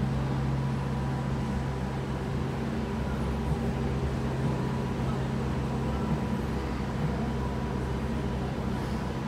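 Kawasaki C151B MRT train standing at the platform, giving off a steady low electrical hum with a faint high tone over the station's background noise.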